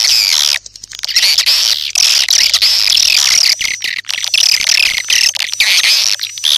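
Recorded swiftlet calls: dense, rapid twittering chirps with short breaks, a lure sound played to call swiftlets to a nesting house.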